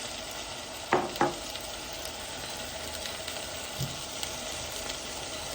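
Chicken, carrots and cabbage sizzling steadily in a pan with a little water just added, stirred as they cook. A utensil knocks twice against the pan about a second in.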